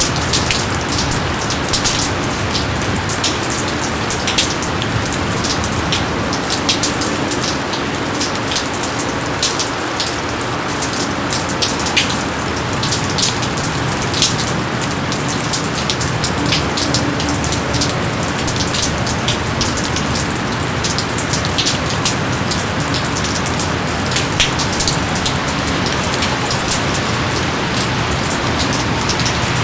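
Steady heavy rain falling on a surface, an even hiss with many close, sharp drop impacts ticking through it.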